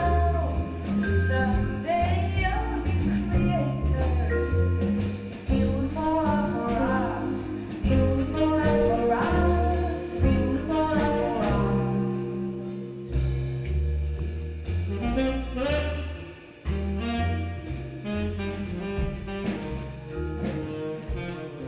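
Live band performing a song on stage, with a bass line moving note by note under a melodic lead line.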